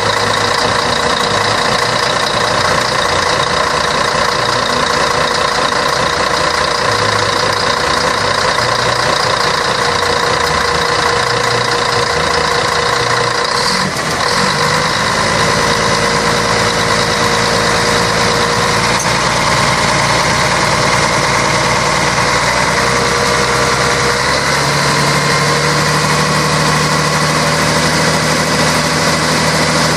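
Scania K113 bus's six-cylinder diesel engine running steadily, its note shifting about halfway through and again near the end.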